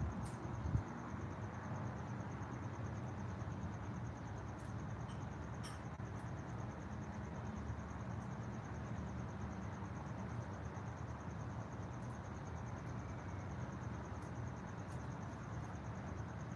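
Insects, crickets by their sound, trilling steadily in a fast, even, high-pitched pulse, over a low steady rumble. A couple of soft knocks come in the first second.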